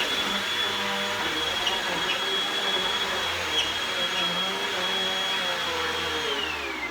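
Vacuum cleaner running steadily with a high whine, then switched off near the end so that its motor winds down, the whine falling in pitch.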